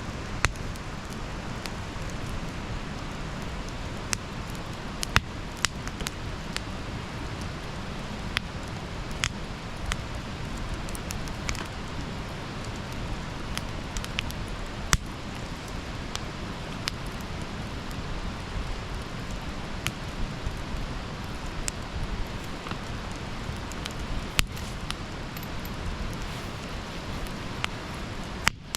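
Wood campfire crackling: a steady low rush of burning with irregular sharp pops and snaps scattered through it. The sound drops out for a split second near the end.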